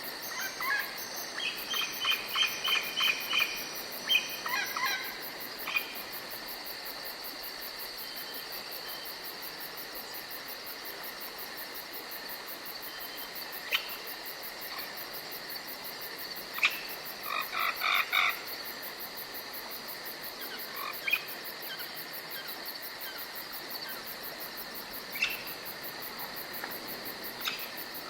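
Forest wildlife ambience: a steady high insect trill, with bursts of rapid pulsed animal calls in the first few seconds and again a little past halfway, and a few single chirps between them.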